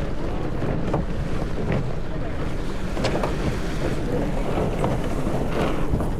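Strong wind buffeting the microphone aboard a sailboat, over the wash of waves, with a few scattered knocks.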